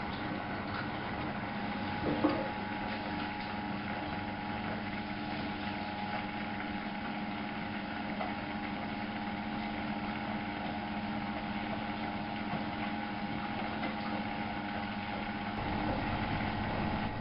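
Miele Novo Super W933 washing machine running with a steady motor hum. A single knock comes about two seconds in, and a deeper rumble comes up near the end.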